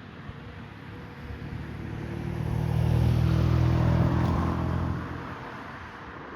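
An engine-powered vehicle passing by: a low engine hum and rushing noise swell to a peak about three to four seconds in, then fade away.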